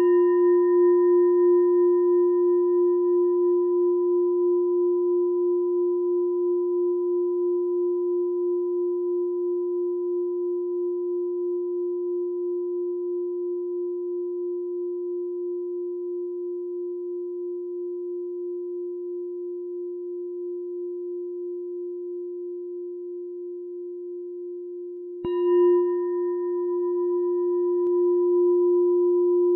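A meditation bell ringing out after a strike: one deep, long-sustained tone with a few higher overtones that fades slowly and wavers in loudness. It is struck again about 25 seconds in, and the ring swells back up.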